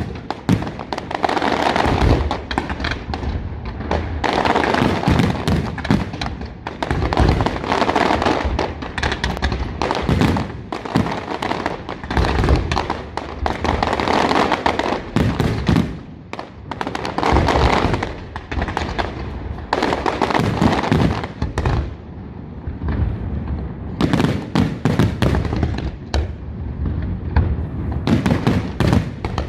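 Aerial fireworks display going off continuously: a dense run of shell bursts and booming thuds, overlaid with crackling.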